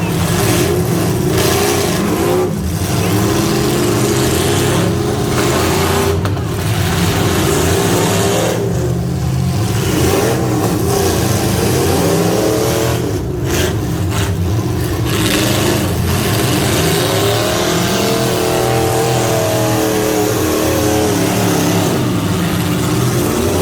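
Half-ton pickup truck engine running hard, revving up and down repeatedly over steady loud noise.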